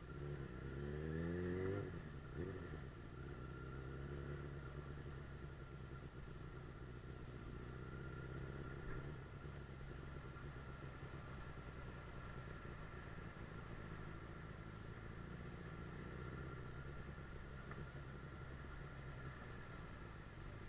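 Suzuki GSF 600 Bandit S inline-four engine picking up revs, rising in pitch over the first two seconds, then running steadily at an even speed.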